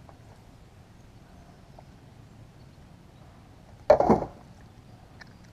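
A single short, loud knock about four seconds in, over a faint, steady background.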